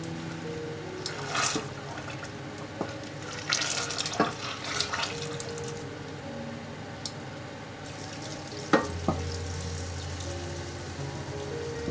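Kitchen utensils clinking and scraping against a bowl or pot as ingredients are stirred. A sharp click comes about nine seconds in, and a steady low hum starts right after it.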